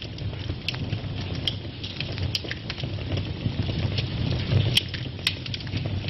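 Wood fire burning in a fireplace: a steady low rumble of flames under scattered crackles and sharp pops, with two louder pops about five seconds in.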